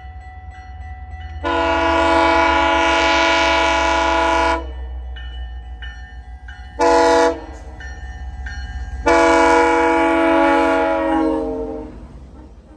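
GO Transit diesel locomotive's air horn sounding for a level crossing: a long blast, a short one and another long one that fades away, finishing the crossing signal, over the steady low rumble of the passing train.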